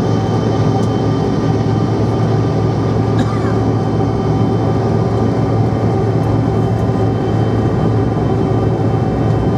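Bombardier CRJ700's rear-mounted GE CF34 turbofan engines heard from inside the passenger cabin: a loud, steady drone with several held tones over a low hum.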